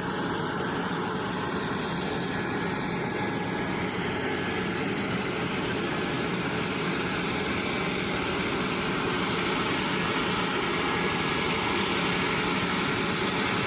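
Turbofan jet engines of a C-5M Super Galaxy transport aircraft running steadily: a dense rushing noise with a faint high whine, growing slightly louder after about ten seconds.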